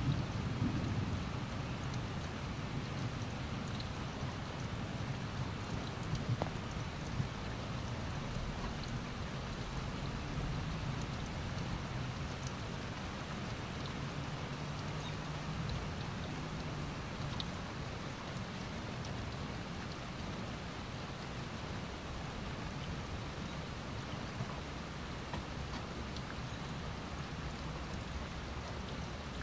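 Steady rain falling on a lawn and trees, an even hiss. A low thunder rumble fades away over the first couple of seconds, and a fainter rumble comes through around the middle.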